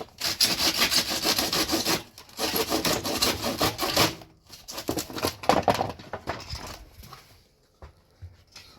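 Rasping back-and-forth strokes of a hand tool, in two loud runs of about two seconds each, then fainter, shorter strokes that die away about seven seconds in.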